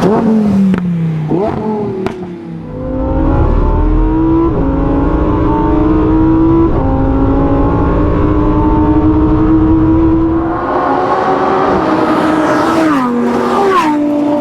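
Lamborghini Huracán Tecnica's naturally aspirated 5.2-litre V10. The revs fall off at first, then it accelerates hard with the pitch climbing and dropping back at two upshifts a couple of seconds apart. Near the end it rises once more and falls away through a downshift.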